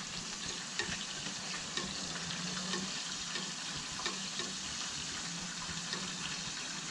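Floured flounder frying in hot oil in a pan: a steady sizzle with scattered crackles and pops.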